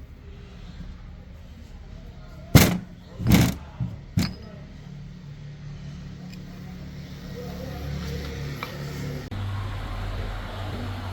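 Truck engine running steadily with a low rumble that grows somewhat louder in the second half. About two and a half to four seconds in come three loud knocks.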